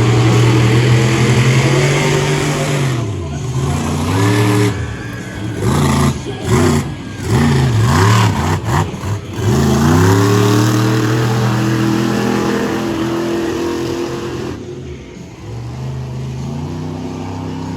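Monster truck engine running at high revs: held wide open, then blipped up and down quickly several times in the middle, held high again, and dropping off before rising once more near the end.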